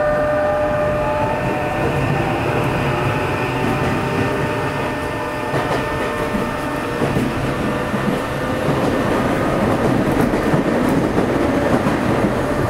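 Tokyo Metro Hibiya Line 03 series electric train running and gathering speed: a motor whine rising in pitch over the rumble of the wheels on the rails, with scattered clacks of the wheels over rail joints.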